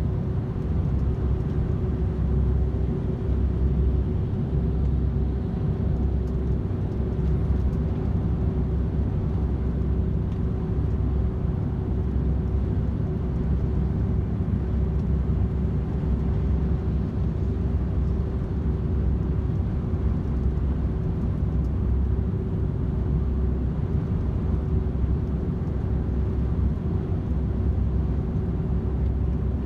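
DAF XF 510 truck's PACCAR MX-13 straight-six diesel and road noise, cruising steadily at motorway speed: an even low rumble with a constant drone.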